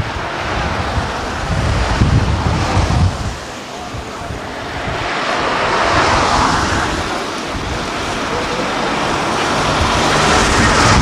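Wind buffeting the microphone in low rumbling gusts over the sound of car engines passing, swelling and fading a couple of times.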